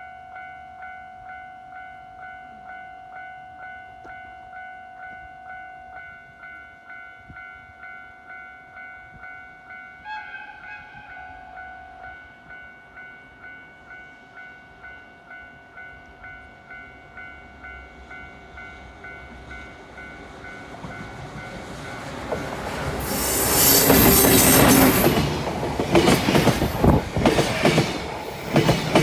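A level-crossing warning bell rings in a steady, even rhythm. About ten seconds in, a short horn blast sounds, most likely from the EF210 electric locomotive. From about twenty seconds the freight train comes up and passes loudly, its wheels clattering and squealing on the curve.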